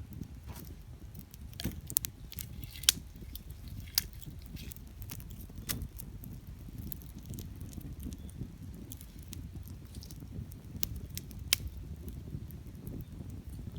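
Wood campfire crackling, with sharp pops scattered irregularly, the loudest about three seconds in, over a low steady rumble.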